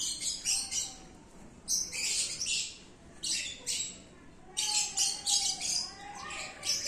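Small birds chirping in quick runs of short, high chirps, with brief pauses between the runs.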